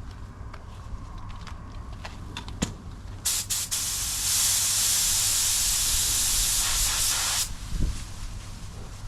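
Fuji spray gun spraying clear coat: a few short bursts of hiss about three seconds in, then a steady, loud hiss for about four seconds that cuts off sharply. Wind rumbles on the microphone underneath.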